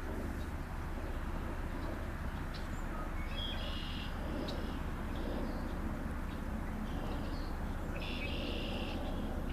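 Songbirds calling in a few short high chirping phrases, over a steady low outdoor rumble.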